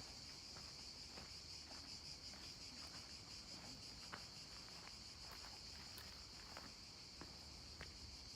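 Steady, high, faint chirring of insects, with soft footsteps ticking along roughly every half second.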